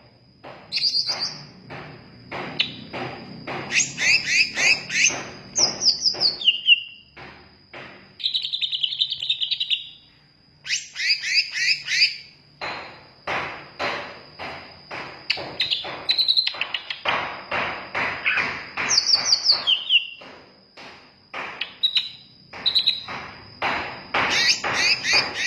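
Green leafbird (cucak ijo) singing in bursts of sharp chirps, slurred downward whistles and a buzzy trill, broken by many short clicking notes. A steady high-pitched tone sits underneath.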